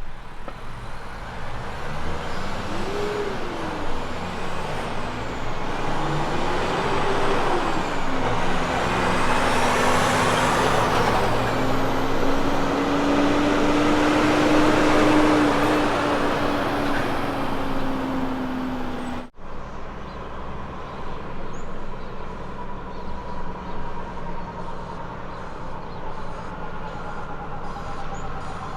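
Heavy truck's diesel engine pulling hard through the gears, its pitch rising and dropping twice at each change, then holding fairly steady under load. About two-thirds of the way through it cuts abruptly to another truck running more quietly and evenly.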